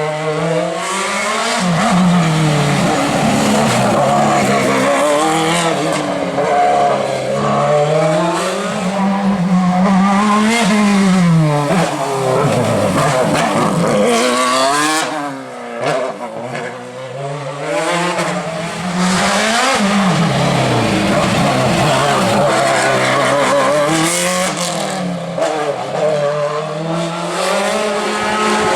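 Racing car engine at full throttle on a hill climb, its pitch repeatedly rising under acceleration and dropping at each gear change and braking, with a brief quieter lull about halfway through.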